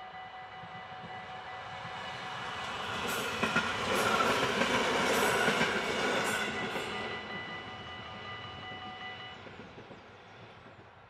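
Level-crossing warning bells ringing steadily while a stopping passenger train passes over the crossing. The train is loudest about four to six seconds in, with wheel clicks over the rail joints, then fades away. The bells stop a little over nine seconds in.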